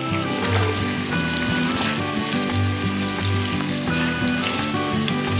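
Sausage patties sizzling in hot grease in a frying pan, a steady hiss, with guitar music playing over it.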